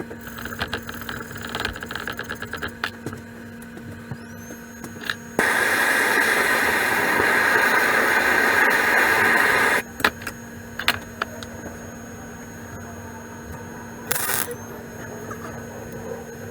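Spool-gun MIG welding of thin aluminium: an even arc hiss runs steadily for about four seconds, starting and stopping abruptly, with a short second burst of arc near the end. Scattered clicks and light knocks of handling come before and between.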